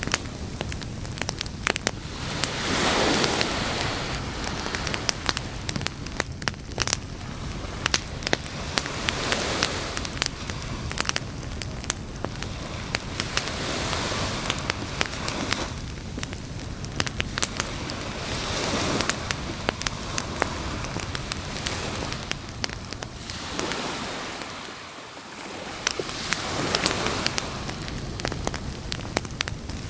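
Wood campfire crackling with frequent sharp pops, over a rushing wash of surf that swells and fades every several seconds.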